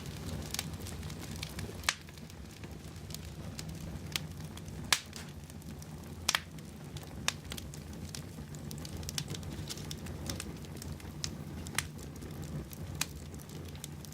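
Wood fire burning in a fireplace: a steady low rumble of the flames with irregular sharp crackles and pops of the burning logs, a few of them louder.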